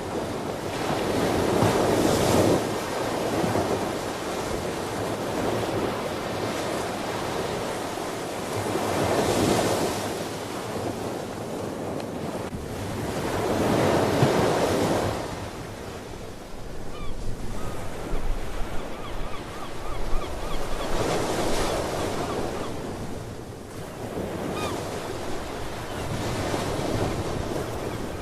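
Ocean waves breaking and washing on the shore, the surf swelling up five times and falling back between. Faint sea bird calls come in over the surf in the second half.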